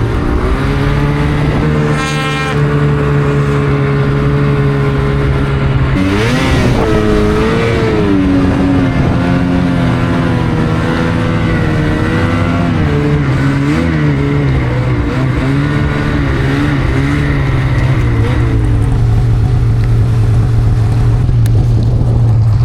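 Snowmobile engine running loud, holding a steady note, then revving up and down about six seconds in, wavering for a while, and settling to a steady lower drone near the end.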